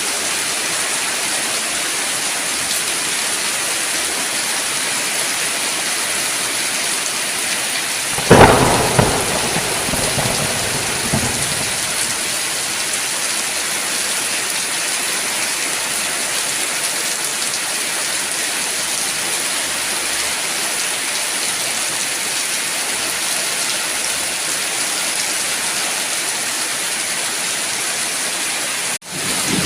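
Steady rain falling, with one sharp thunderclap about eight seconds in that rumbles away over a few seconds. The rain sound cuts out for a moment near the end before resuming.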